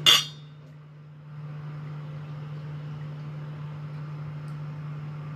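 A sharp metallic clank, then water running steadily from a tap into a kettle, over a steady low hum.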